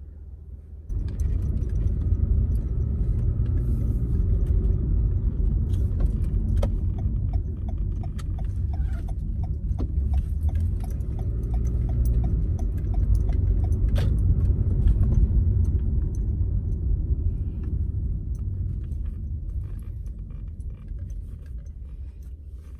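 Car driving, heard from inside: a steady low rumble of engine and road noise, with a run of light, evenly spaced ticks partway through, dying down toward the end as the car slows.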